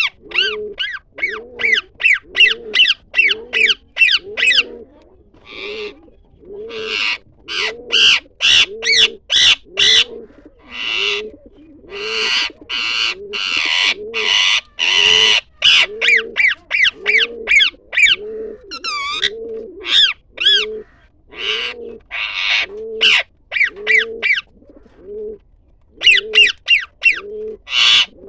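Birds calling together: a low cooing note repeated about once a second, of the pigeon kind, under loud high chirps and quick downward-sweeping whistled calls from other birds.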